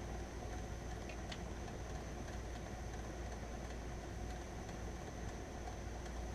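Steady low background hum with a faint click a little over a second in.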